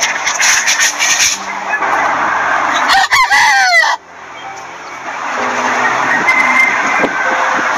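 Chickens clucking, with a rooster crowing for about a second around three seconds in. The crow cuts off suddenly, and after it comes softer clucking from a flock over steady background noise.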